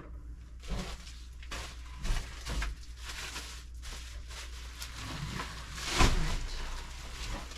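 Rustling and light knocks of food packages and containers being handled and moved on pantry shelves, with a louder rustle about six seconds in.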